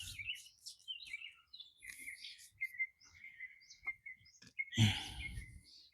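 Birds chirping and singing outdoors, a thin high note held behind the calls through the later part, with a brief louder noise near the end.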